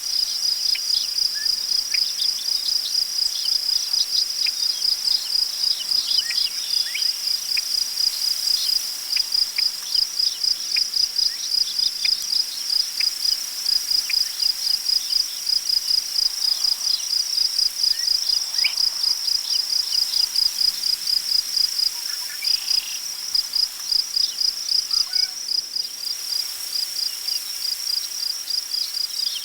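Crickets chirping steadily in an even rhythm, about three to four chirps a second, with faint scattered bird chirps and a soft hiss of wind through tall grass.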